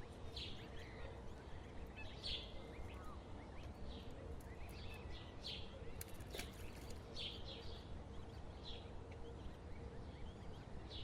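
Short, high-pitched bird chirps, one every second or so, over a steady low outdoor rumble.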